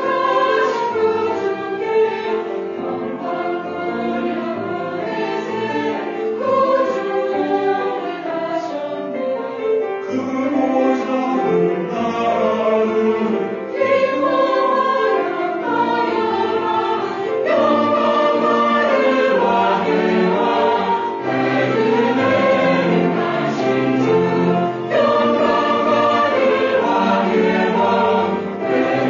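Church choir singing a Christmas hymn, many voices in sustained harmony.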